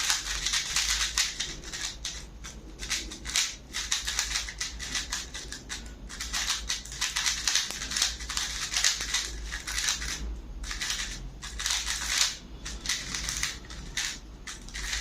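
Tornado V3 Flagship magnetic 3x3 speed cube being turned quickly by hand: a rapid, uneven run of plastic clicks and clacks from the layers, with a few brief pauses.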